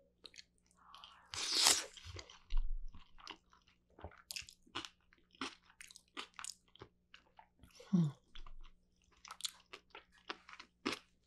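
Close-miked chewing of a spoonful of doenjang yeolmu rice bowl: rice mixed with young summer radish greens and soybean paste. It comes as many short wet clicks and crunches, with a louder, denser stretch about a second and a half in.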